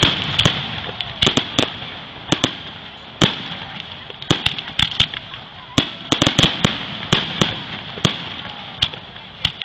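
Aerial firework shells bursting in a fireworks finale: a fast, irregular barrage of sharp bangs, often several within a second, over a steady crackling hiss.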